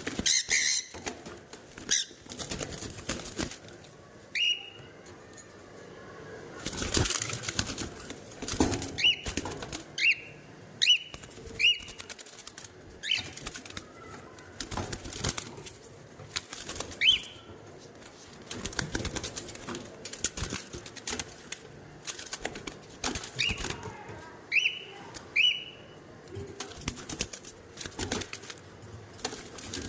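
Pet parrot giving short, sharp chirping calls, about fifteen of them scattered through, each a quick high note that sweeps in pitch, among frequent brief clicks and scuffing knocks.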